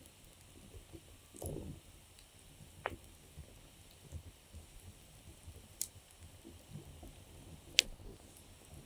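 Campfire wood crackling softly, with a few scattered sharp pops; the loudest pop comes near the end.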